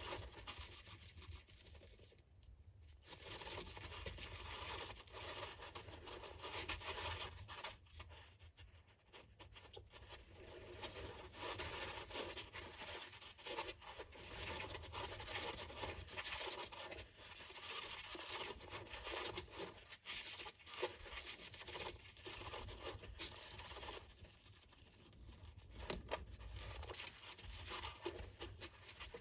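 A hamster scratching and digging in loose sand, a faint dry scratching and rustling that comes in spells with short pauses between them.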